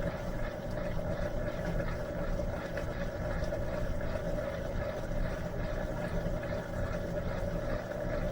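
Electrolux LM13Q top-load washing machine running with a steady mechanical hum, in the stage before it fills for the rinse.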